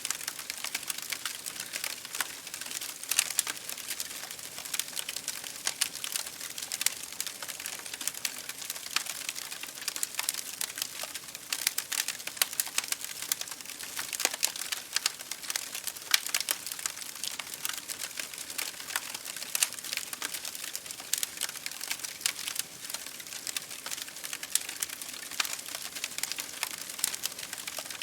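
Wood fire crackling in a fireplace, a dense, irregular stream of small pops and snaps, over an even hiss of rain against a window.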